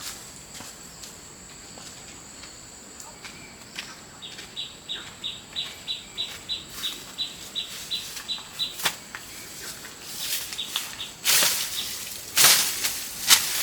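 Outdoor rural sounds: a steady high-pitched insect-like drone, with a run of short high chirps repeated about four times a second for several seconds. Near the end come several loud, sharp swishing or rustling noises.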